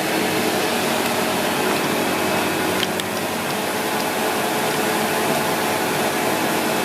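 Vacuum cleaner running steadily, a constant motor hum under rushing air, with a couple of brief clicks about three seconds in.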